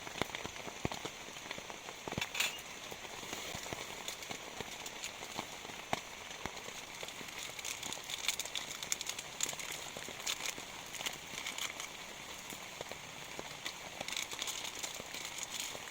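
Heavy rain falling: a steady hiss crowded with many small, quick drop ticks.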